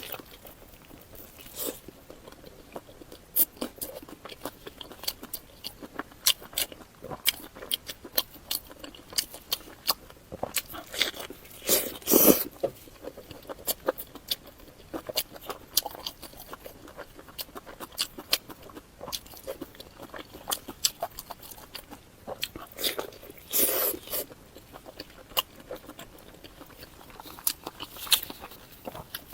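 Close-miked eating sounds: chewing and biting, with many small sharp mouth clicks. Two louder, longer bursts come about twelve and twenty-four seconds in.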